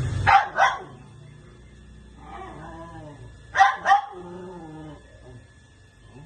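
Two pairs of short, sharp bark-like calls, each pair about a third of a second apart: one pair at the start and one about three and a half seconds in. Quieter wavering, whine-like calls come between the pairs and just after the second.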